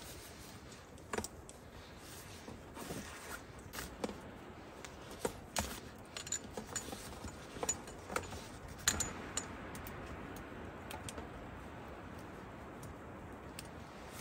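Light clicks and clinks of small objects being handled, coming at irregular intervals and thickest between about four and ten seconds in, over a steady faint hiss.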